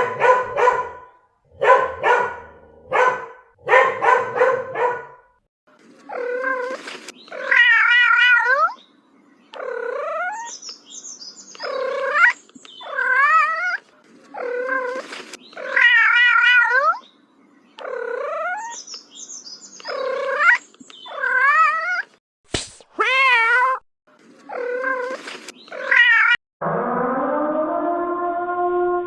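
Quick bursts of dog barking, then a cat meowing over and over in long, wavering yowls about a second each. Near the end a long, steady, low call begins.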